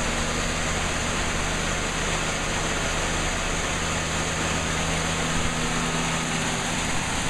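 1980 Cadillac Seville's fuel-injected V8 running steadily just after its first cold start in over twenty years of sitting.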